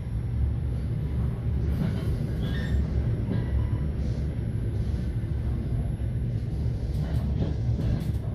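Steady low rumble of a passenger train and its carriages, with a few faint higher sounds in the background.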